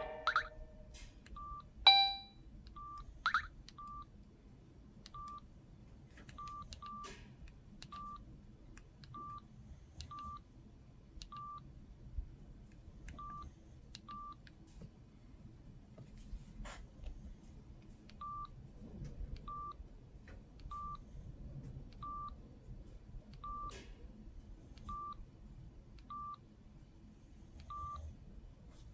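Samsung SGH-X506 mobile phone's keypad tones: short, identical high beeps, one every second or so with a few pauses, as its buttons are pressed, with faint button clicks between them.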